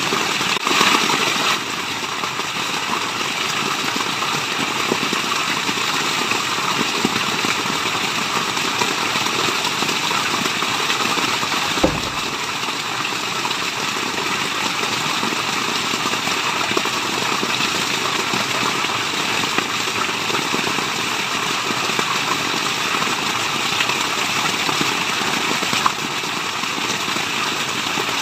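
Waterfall: steady rushing water, an even unbroken noise, with a brief click about twelve seconds in and another near the end.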